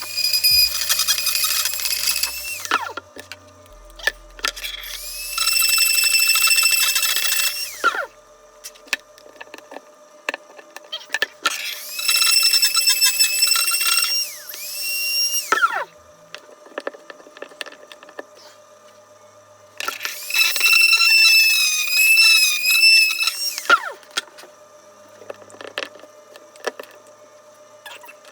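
Dremel rotary tool grinding out the inside of a PVC pipe, in four runs of a few seconds each. Each run is a high whine that rises as the motor spins up and falls away as it stops, and the pitch wavers during the last run.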